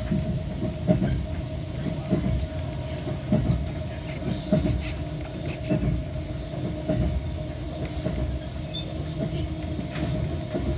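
Metra commuter train in motion, heard from aboard: a steady low rumble and hum with the wheels knocking over rail joints about once a second.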